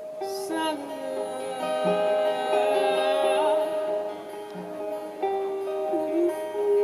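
Acoustic guitar played live, with a voice singing over it.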